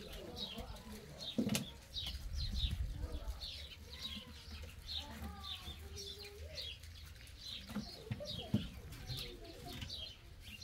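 A small bird chirping over and over, about two short high chirps a second, with a single sharp knock of firewood being laid into a hearth about a second and a half in.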